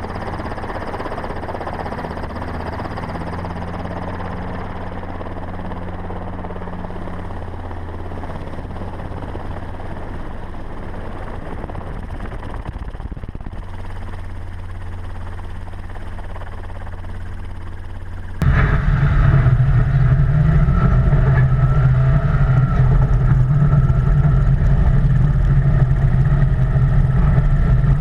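Steady engine noise from off-road vehicles at speed, a constant low hum. About two-thirds of the way through it jumps abruptly to a much louder, fuller engine sound with a higher whine on top.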